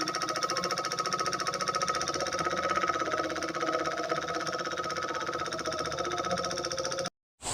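Miniature single-cylinder diesel engine running steadily with a fast, even knocking beat. It cuts off suddenly near the end.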